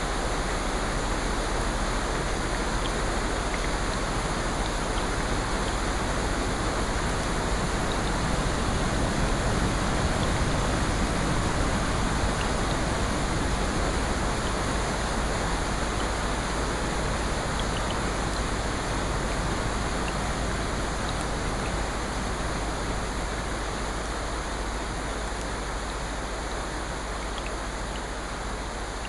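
Rain and ocean surf: a steady rushing hiss that swells gently about ten seconds in and slowly fades toward the end, with faint scattered ticks.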